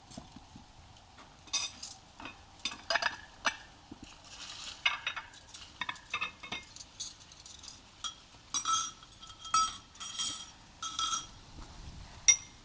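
Cutlery clinking and scraping against dishes in many short, irregular strokes.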